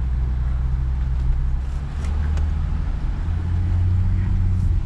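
Truck engine droning steadily while driving off-road, its note stepping up about two seconds in.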